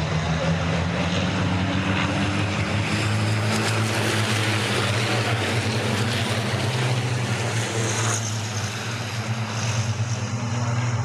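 Race trucks' diesel engines running, a steady low drone with a rush of noise that swells and fades in the middle as trucks go past, changing again about eight seconds in.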